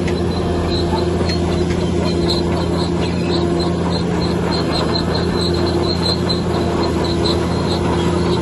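Bulldozer working: its diesel engine runs steadily under the repeating high squeak of its steel crawler tracks, two or three squeaks a second.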